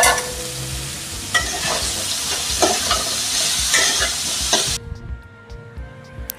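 Chopped chickpea greens sizzling in hot oil in a kadai, stirred with a metal spatula that scrapes and knocks against the pan about once a second. The sizzle stops abruptly about five seconds in.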